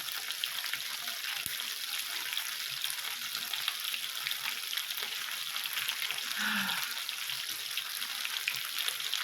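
Oiled, teriyaki-marinaded chicken kebabs sizzling and spitting on a hot indoor grill, a steady crackling hiss with many small pops of spattering oil.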